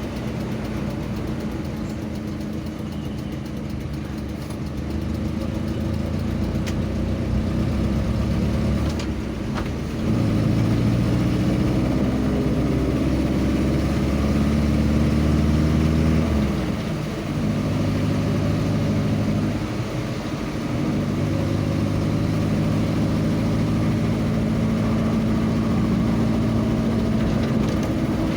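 A vehicle's engine running on the road, its note stepping up about ten seconds in and dropping and rising again a few times after, as with speed or gear changes.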